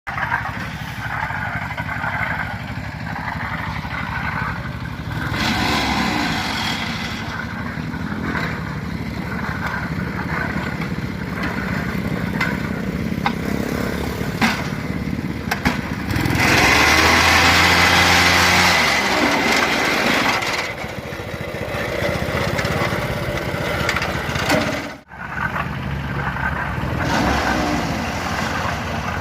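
A motor-driven machine running steadily. Near the middle it grows louder and noisier for a few seconds, then its pitch falls and it settles back to a steady run.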